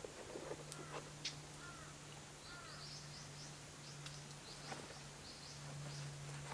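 Small songbirds chirping: a quick series of short high chirps through the middle, with a few lower, arched calls before it and some scattered light clicks, over a steady low hum.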